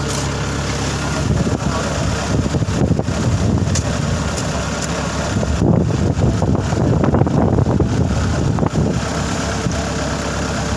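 Engine running steadily with a low rumble, with wind buffeting the microphone; the rumble grows rougher and a little louder about halfway through.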